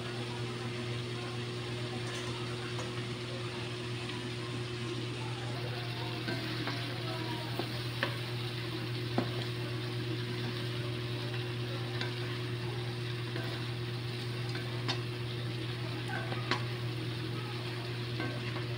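Chicken adobo sizzling steadily in a metal wok, with a few sharp clicks and scrapes of a spatula stirring against the pan in the second half. A steady low hum runs underneath.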